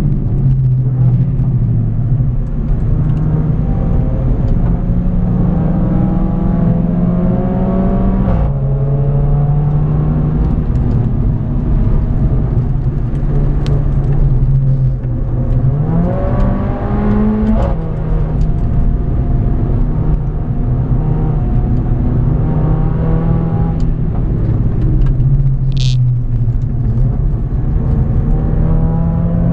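Mercedes A45 AMG's turbocharged four-cylinder engine pulling hard under acceleration, heard from inside the cabin over road and wind rumble: its note climbs steadily, drops sharply on an upshift about eight seconds in, climbs and drops again around sixteen to seventeen seconds, and is rising again near the end. A brief sharp click sounds once, near the end.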